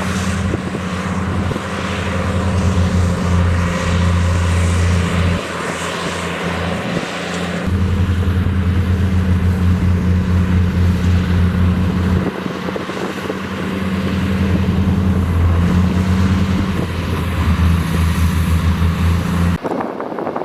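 Heavy diesel engine of construction machinery running with a low, pulsing throb. It rises and falls in loudness and changes abruptly a few times.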